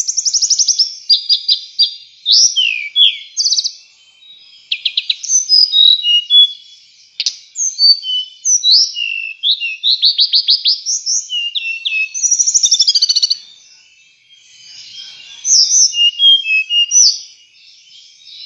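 A tledekan songbird singing loudly and almost without pause in a rapid, varied song of high whistles, fast trills and sweeping notes. It drops briefly about two thirds of the way in and is softer near the end. This is the vigorous 'gacor' song used as tutor song for white-rumped shamas.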